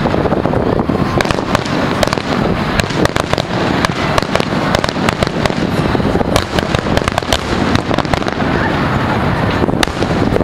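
Fireworks display: a dense, continuous barrage of bangs and crackling, many reports overlapping with no pause.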